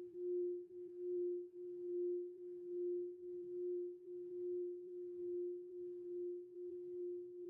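Singing bowl ringing a single sustained pure tone that swells and fades in a slow, regular pulse a little more than once a second.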